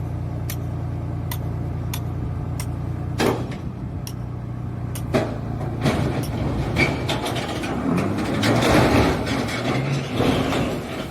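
A motor vehicle's engine runs with a steady low hum under sharp ticks about twice a second. About three seconds in come a few knocks, and the second half turns into a louder, noisy clatter.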